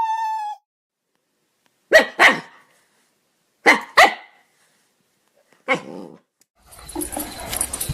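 A dog barking: two quick barks about two seconds in, two more about four seconds in, and one more near six seconds, after a short high whine at the start.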